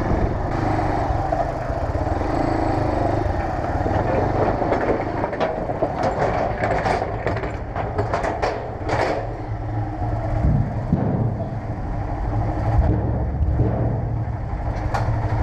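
A motorcycle engine running steadily at low revs, with a few sharp clicks and knocks about halfway through.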